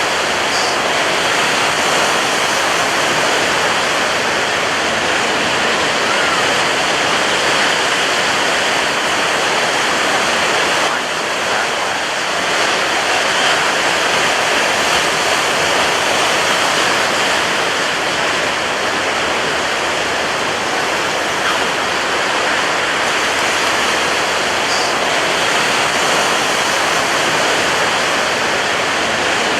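Ocean surf breaking on a beach: a loud, unbroken wash of churning water with no separate wave crashes standing out, easing briefly about eleven seconds in.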